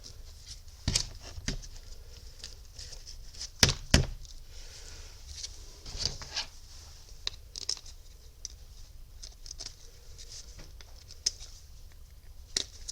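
Scattered light clicks and knocks from handling a random orbital sander's new metal-backed pad and its Torx screws while lining the pad up, with a few sharper knocks about a second in and around four seconds in.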